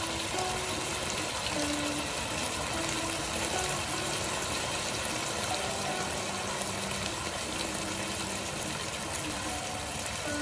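Beef and chili pepper strips sizzling steadily in a hot wok in a thin sauce.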